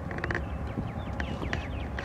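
Birds chirping: many short, quick downward-sliding chirps and a few clicks, over a steady low rumble.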